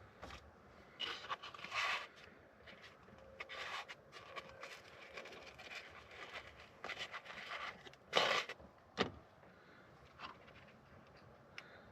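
Hard plastic scraping, rustling and knocking as a headlight assembly and its bulbs are handled, with two sharp clicks about eight and nine seconds in.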